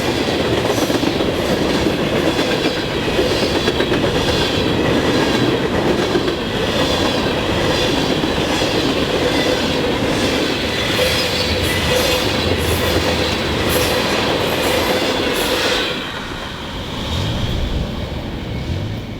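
Freight cars of a CSX train rolling past at track speed, their wheels clacking rhythmically over rail joints with a steady metallic squeal from the wheels. The sound drops off sharply about 16 seconds in, as the end of the train goes by.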